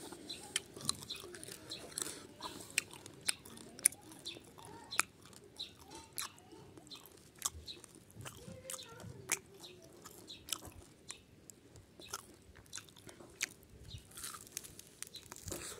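A person chewing and biting into charred roasted pork close to the microphone, with many small sharp crunches at an irregular pace.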